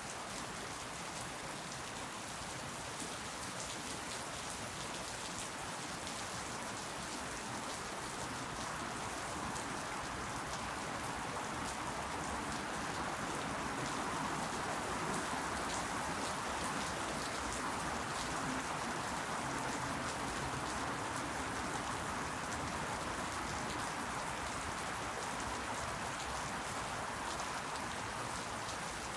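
Steady rain falling, a dense patter of drops that grows a little louder around the middle.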